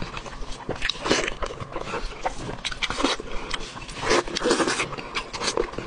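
Close-miked wet chewing and lip smacking as a mouthful of braised pig's trotter is eaten, in irregular short bursts with clicks.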